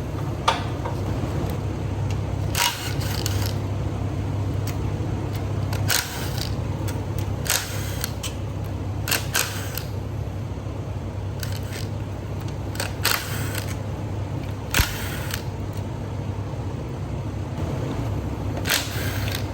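Hand tools and metal parts of a 6.2-litre L92 engine being handled during teardown: scattered short clicks, clinks and scrapes, over a steady low hum.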